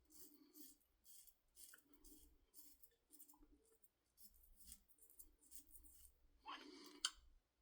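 Shavette blade scraping through several days' stubble in short strokes, about two a second, faint; a louder rasp ending in a sharp click comes near the end.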